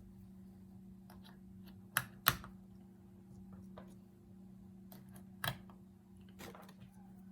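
A few sharp clicks and taps: fuses are being handled and pressed into the fuse holders of a pinball machine's mech board, with two close together about two seconds in and another in the middle. A steady low hum runs underneath.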